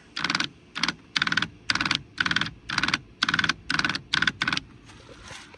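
Power seat track motor run in about ten short bursts, roughly two a second, each a quick clicking whir. The seat's forward drive is stripped, so the track does not move.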